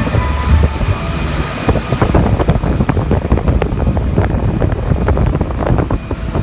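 Motorboat running under way on the water: a steady low engine rumble with wind buffeting the microphone and many short knocks and splashes from the hull.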